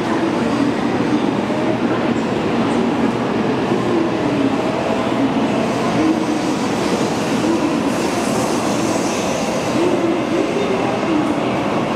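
N700 series Shinkansen pulling out of the platform and accelerating, a steady loud rush of wheels and carriages passing close by.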